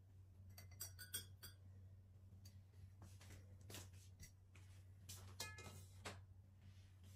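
Quiet household handling sounds: a few faint clicks and small ringing clinks of hard objects, such as dishes or glass, being moved, over a low steady hum.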